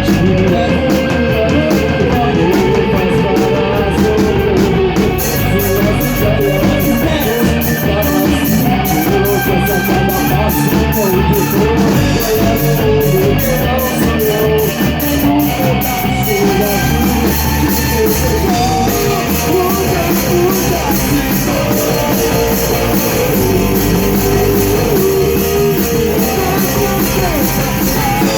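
A rock band playing a song live in rehearsal: electric guitars over bass and a drum kit, with steady, evenly spaced cymbal strokes keeping the beat.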